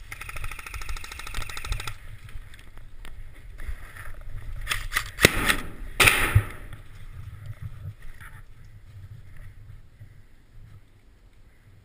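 Airsoft electric gun firing a rapid full-auto burst, a fast even rattle of shots lasting about two seconds. A few seconds later come loud knocks and rustling from gear being handled, over wind rumble on the microphone.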